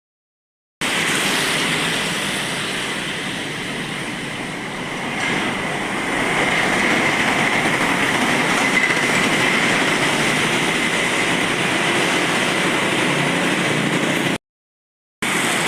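Steady traffic noise of heavy trucks passing on a wet road, with tyre hiss, and a faint high whine in the middle; it cuts out briefly near the end.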